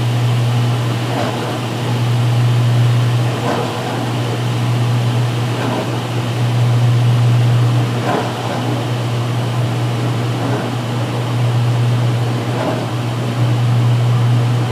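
2016 Speed Queen top-load washer in its final spin-drain: a steady low motor hum with a faint swish about every two seconds.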